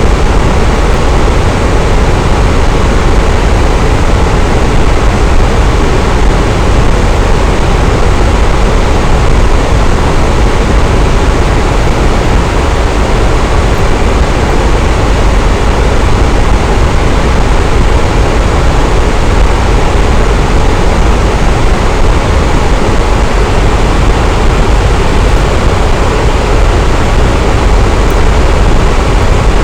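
Electric fan running steadily: a constant whooshing of moving air with a deep low rumble and a faint hum, unchanging throughout.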